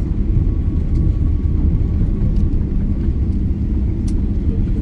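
Steady low rumble inside the cabin of a Boeing 777-300ER rolling along the runway just after touchdown: the engines and the rolling aircraft heard through the fuselage.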